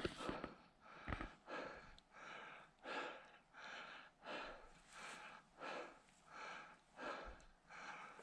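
A hiker breathing hard on a steep mountain climb: a steady rhythm of loud, airy breaths, about one every three-quarters of a second.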